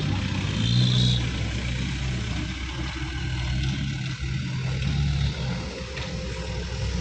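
Dump truck engine running, rising in pitch and getting louder about a second in, then settling to a steady run.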